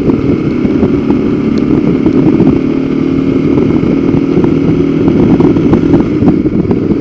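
Motorcycle engine running steadily at road speed while riding, with no change in revs.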